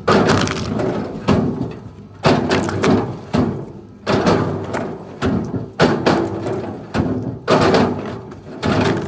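A series of heavy thuds and knocks, roughly one a second at uneven spacing, each dying away over about a second.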